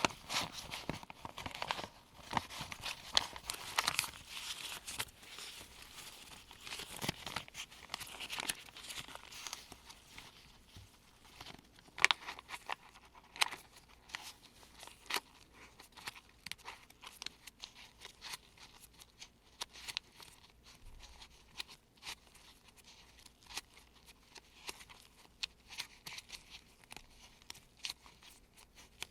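US one-dollar paper bills rustling and crinkling in gloved hands as they are picked up and sifted through: a string of short, crisp rustles and snaps, thick in the first third and sparser after.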